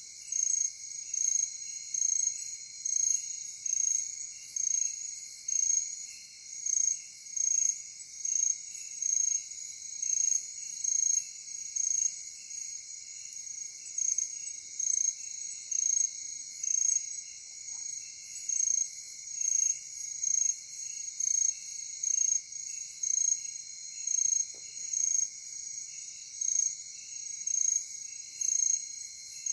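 Night insect chorus: a steady high-pitched trilling under a louder chirp that pulses evenly about once a second.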